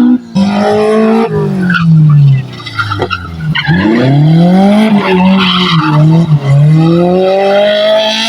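Car engine revving up and down repeatedly as it is thrown through a slalom course, the pitch rising and falling several times, with tires squealing in the turns.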